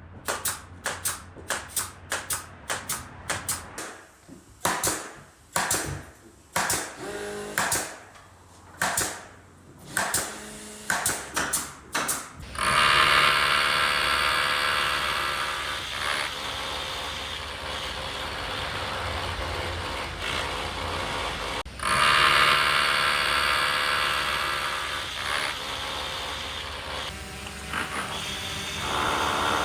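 Woodworking workshop noise: a quick, irregular run of sharp knocks for about twelve seconds, then a power tool running loudly and steadily, louder again about ten seconds later.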